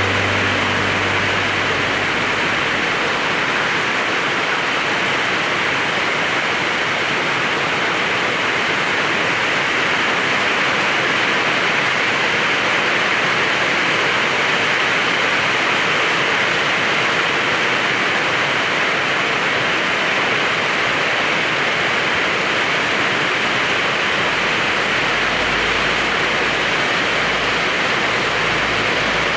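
Rain pouring down steadily: a loud, even hiss with no let-up.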